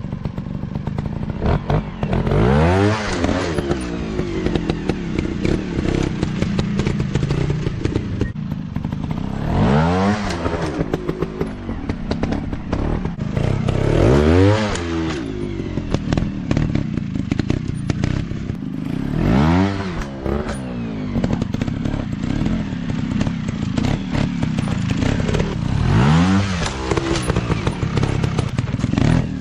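Dirt bike engines running on a rough trail, revving up and dropping back about six times, with clattering knocks throughout.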